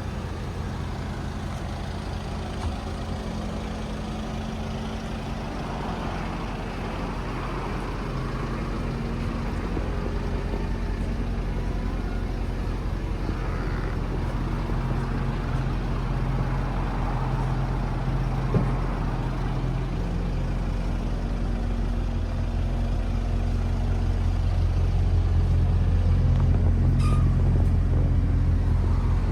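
Mercedes E63 AMG's naturally aspirated 6.2-litre V8 idling steadily with a deep, even exhaust note, growing louder in the last few seconds. A single sharp click about two-thirds of the way through.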